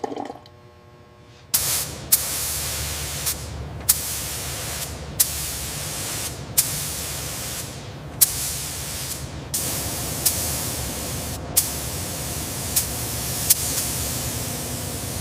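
Compressed-air paint spray gun hissing, starting about a second and a half in. The spray breaks off briefly every second or two, with a sharp click at each restart.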